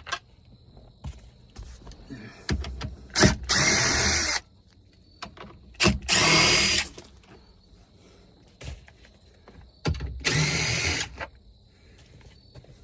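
Power drill backing out 8mm bolts, running in three short bursts of about a second each, with small clicks and knocks between the bursts.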